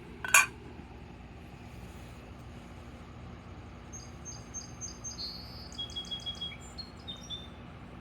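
A single sharp clack just after the start, then a small bird singing a quick series of high chirps and trills from about four seconds in. A steady low hum and background rumble run throughout.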